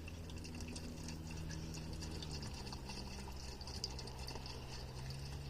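Sugar syrup being poured into a beehive feeder, a fine trickling splash, over the steady low hum of honeybees, which drops in pitch about halfway through.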